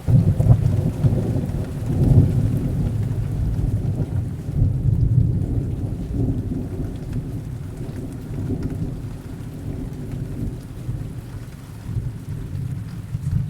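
A long roll of thunder over steady heavy rain. The rumble breaks in suddenly, is loudest in the first two seconds, then rolls on and slowly fades, with a smaller swell near the end.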